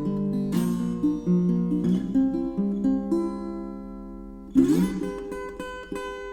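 Acoustic guitar music, plucked notes and a few strummed chords, fading toward the end.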